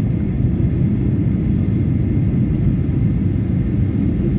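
Airliner cabin noise on the approach to landing: a steady low rumble of the engines and rushing air, heard from inside the passenger cabin.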